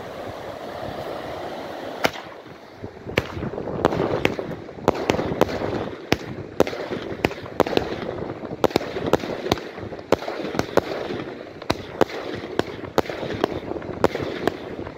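A ZEUS Fireworks 30 mm-bore, 25-shot barrage cake firing. After about two seconds of steady hiss, a first sharp bang comes about two seconds in, and from about three seconds a rapid run of loud shell launches and bursts follows, roughly two a second, with hissing between them.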